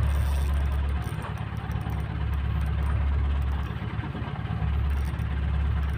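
Boat engine running steadily with an even, fast low throb.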